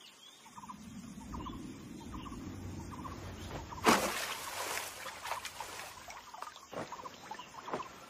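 Wild outdoor ambience: a bird repeats a short chattering call over and over, a little more than once a second, over a low rumble. A sudden loud noise comes about four seconds in.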